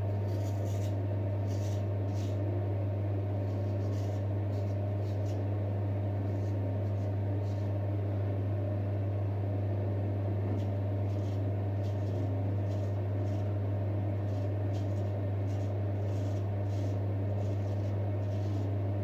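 A straight razor scrapes through stubble in short, irregular strokes over a steady low hum.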